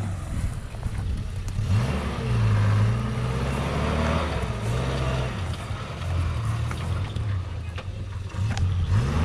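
Off-road 4x4's engine revving up and easing off several times, with a few short knocks in the last few seconds.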